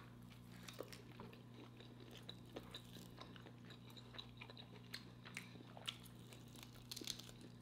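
Faint chewing: soft, scattered clicks and small crunches from eating, over a steady low hum.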